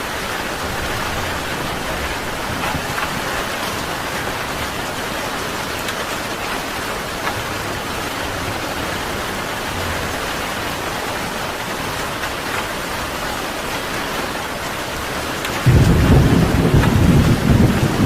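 Steady heavy rain falling. Near the end a loud, low rumble of thunder breaks in suddenly and keeps rolling.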